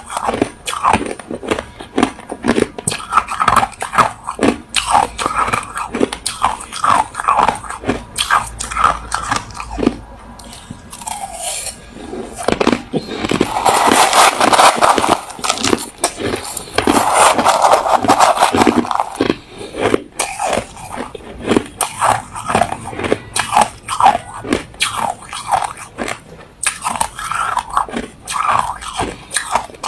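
Close-up crunching of a person biting and chewing hard, refrozen crushed ice: a run of sharp crunches, rising to a denser, louder stretch of continuous crunching in the middle.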